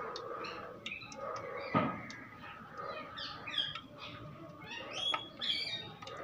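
Small birds chirping in quick runs of short falling notes, thickest in the second half. About two seconds in, a slotted steel spoon clinks once against the aluminium frying pan.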